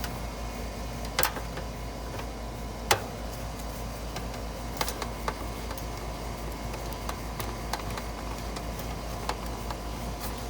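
Scattered small clicks and taps of hand work on an AC condenser's capacitor and its wiring, over a steady low hum.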